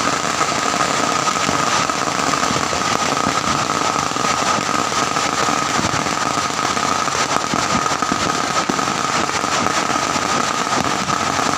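Firecrackers going off in a continuous, rapid, dense crackle of small bangs.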